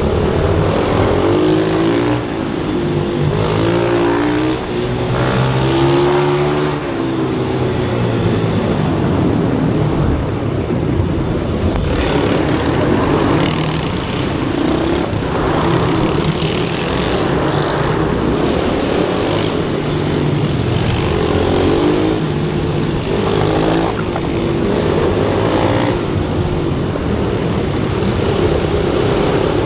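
Pit bike engines at racing revs, pitch climbing as they accelerate and dropping as they ease off, over and over.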